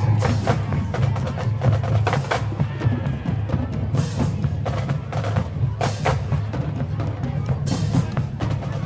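Marching band drumline playing, snare and bass drums striking in quick succession without the horns.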